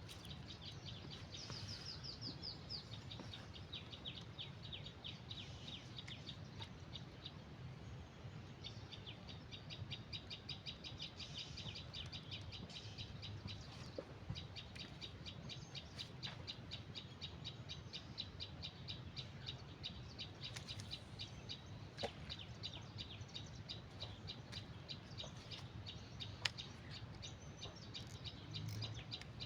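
Quiet outdoor ambience: a fast, even run of high chirps, about five or six a second, repeating for long stretches over a faint low rumble, with a few faint clicks.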